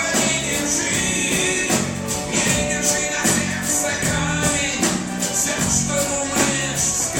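Live pop band playing a song, with singing over a steady beat.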